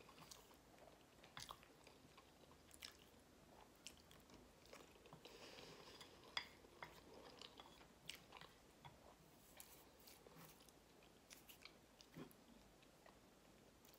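Faint chewing of a mouthful of macaroni and cheese, with scattered soft mouth clicks, and a light knock near the end.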